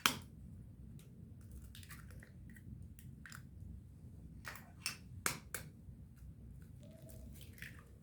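Kitchen utensils and dishes being handled: scattered sharp clicks and knocks, the loudest right at the start and a few more about halfway through, over a low steady hum.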